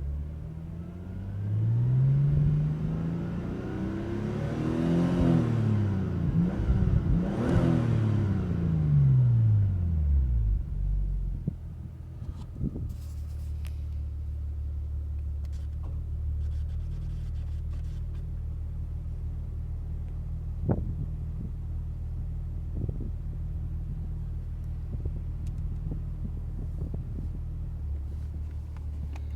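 Nissan Skyline R34 GT-T's turbocharged RB25DET Neo straight-six, through a NISMO catback exhaust, revved a few times, then settling to a steady idle about ten seconds in.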